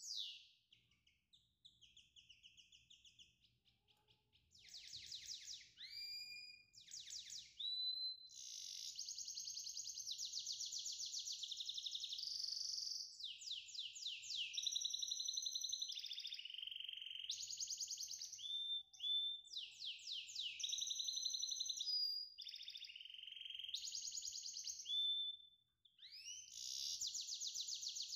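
High-pitched bird song: phrases of fast trills and whistled notes with short upward glides, quieter and broken up for the first few seconds, then nearly continuous.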